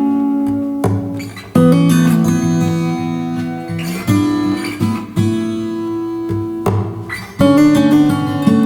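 Background music on acoustic guitar, notes plucked and strummed and left to ring.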